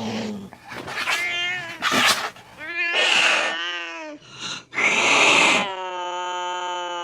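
Angry cat yowling and hissing: a string of short, wavering yowls and hissing snarls, ending in one long drawn-out yowl held on a steady pitch.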